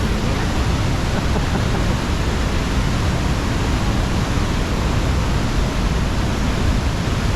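Waterfall pouring into a plunge pool, a steady loud rush of water.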